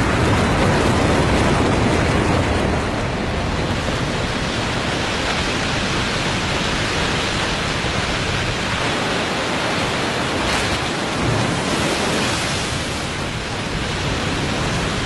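Waterfall in spring break-up: meltwater pouring over the drop carrying a jumble of mud and broken ice, a loud steady rushing roar.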